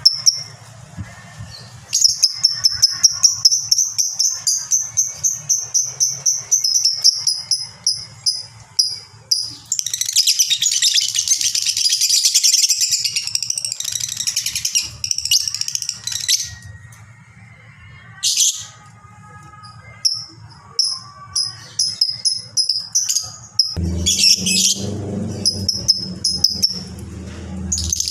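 Lovebird calling a long, fast chattering trill ('ngekek panjang'), a string of high, evenly spaced notes lasting several seconds, followed by a dense burst of chatter and scattered shorter chirps. A low hum comes in near the end.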